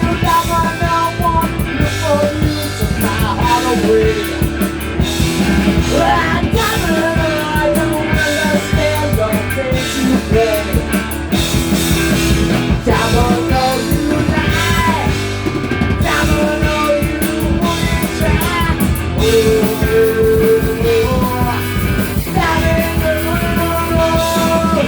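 A rock band playing at a steady loud level: drum kit, bass and guitar, with a bending melody line over them and no words.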